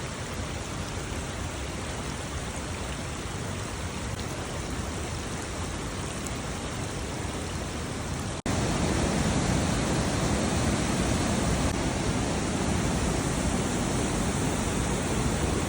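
Waterfalls rushing: a steady wash of falling water. It breaks off for an instant about eight seconds in and comes back louder and fuller.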